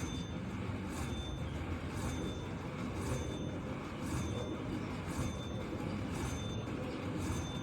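Bao Zhu Zhao Fu slot machine sounding short electronic chimes about once a second over the steady din of a casino floor, as the bonus feature ends after its last spin.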